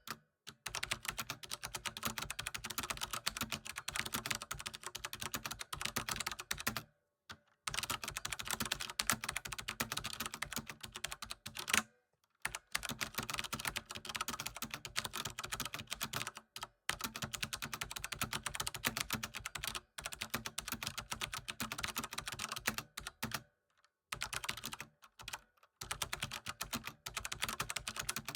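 Typing on a computer keyboard: long runs of rapid keystrokes, broken every few seconds by short pauses.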